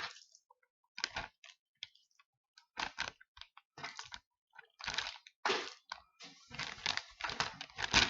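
Plastic gallon freezer bag crinkling in short, irregular bursts as raw chicken pieces are dropped into it and the bag is handled. The bursts come more often near the end.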